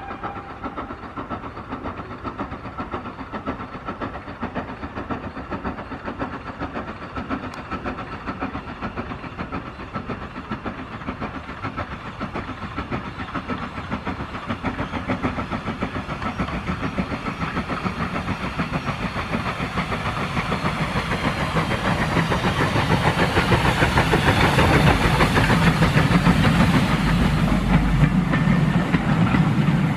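Hunslet Austerity 0-6-0 saddle tank steam locomotive working a train with rapid exhaust beats and steam hiss, growing steadily louder as it approaches and loudest near the end.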